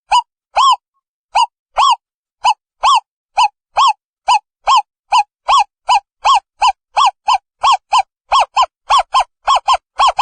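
An owl calling: a long series of short hooting notes, each rising and falling in pitch, repeated steadily and gradually speeding up from about two to about three and a half notes a second.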